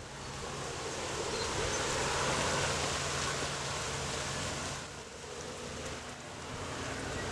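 Tractor engine running with a steady low hum under a rushing noise that swells, dips about five seconds in, and rises again.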